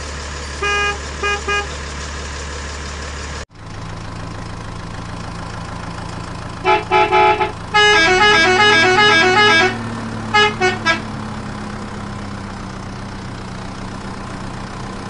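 Truck engine running steadily with horn honks laid over it: a few short beeps, then a longer two-note honking pattern, then more short beeps. The engine hum cuts off abruptly and resumes at a different pitch a few seconds in, and steps up slightly in pitch when the long honking begins.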